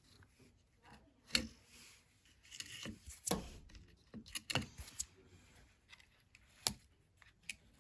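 Scattered sharp clicks and knocks, with some scraping between them, as plastic and metal parts of a washing machine's drain pump assembly are handled and worked loose.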